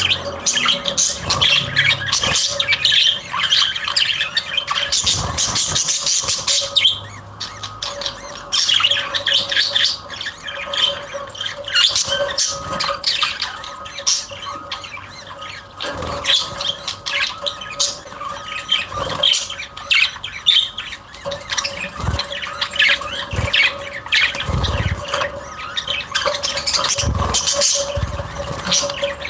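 A flock of small cage birds chirping and squawking continuously, many calls overlapping.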